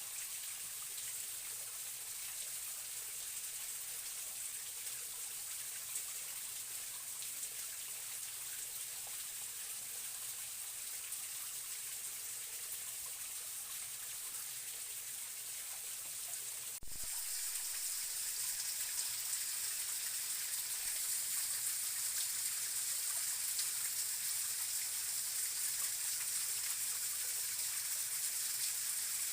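Steady rush of a forest stream flowing, an even water noise with no distinct events. About two-thirds of the way through it cuts abruptly to a slightly louder, brighter stretch of the same kind of sound.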